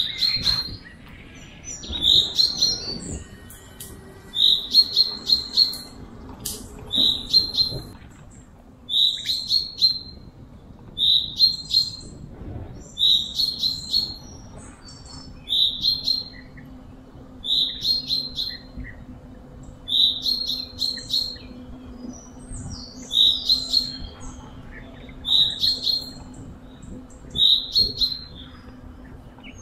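Bird song: short phrases of high chirps repeating about every two seconds.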